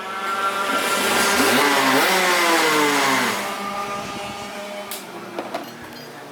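Racing kart engine revving past, rising in pitch and growing loud, then dropping in pitch and fading away after about three seconds.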